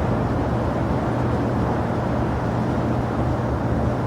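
Steady noise of jet airliner engines running, an even rush with a low steady hum beneath it.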